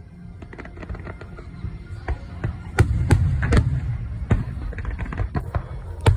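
Aerial fireworks bursting: a run of sharp cracks and pops with heavier booms and rumble from about three seconds in, and another loud burst near the end.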